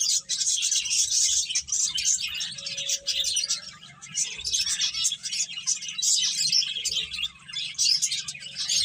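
Pet finches chirping, many short high calls overlapping in a dense, unbroken chatter.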